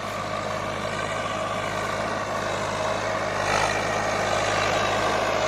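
Swaraj 855 tractor's diesel engine running steadily under load, pulling a loaded trolley. It grows a little louder and harsher from about halfway through.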